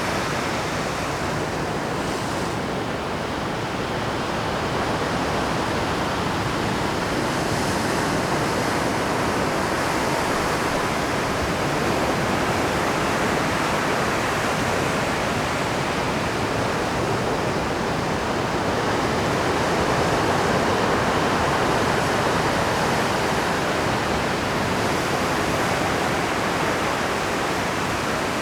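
Pacific surf crashing continuously on a rocky shore at high tide, a dense steady rush of breaking water that swells and eases slowly.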